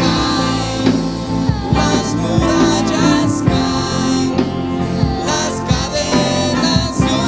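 Worship band music without clear words: held instrumental chords over a steady drum beat.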